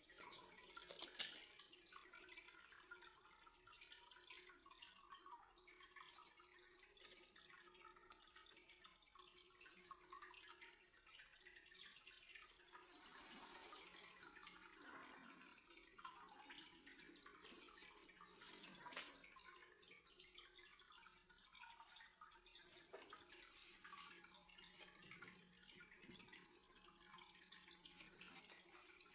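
Faint dripping and trickling water with scattered small ticks, very quiet overall.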